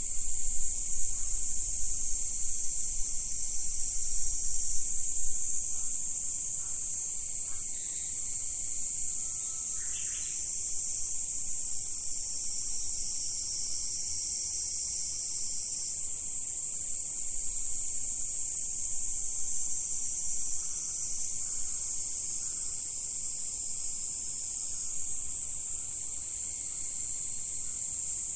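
A chorus of insects: a dense, steady, high-pitched trill that goes on without a break. Low rumbling comes and goes in the first few seconds, and a brief faint call is heard about ten seconds in.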